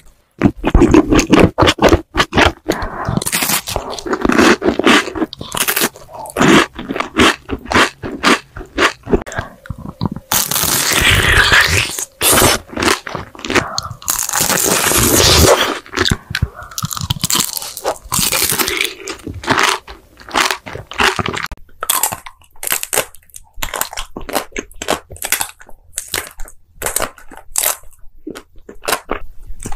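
Close-miked ASMR eating: a mouth biting and chewing food, with many sharp crunches and a few longer stretches of continuous chewing.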